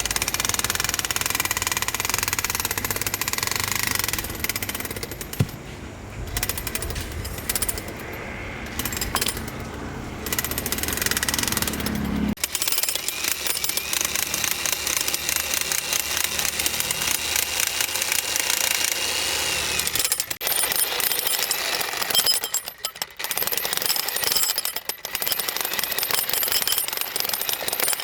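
Jackhammer hammering continuously, a rapid rattling clatter. A low rumble under it drops out about twelve seconds in, and the hammering breaks off briefly a few times near the end.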